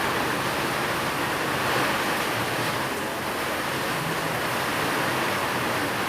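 Steady rain, a continuous even hiss.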